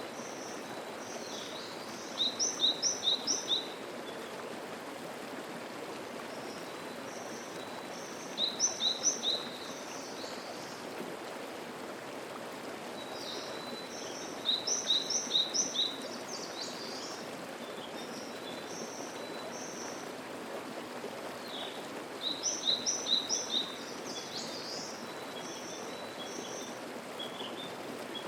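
A mountain stream flows steadily. A songbird sings a short phrase of a few rapid, repeated high notes four times, about every six seconds.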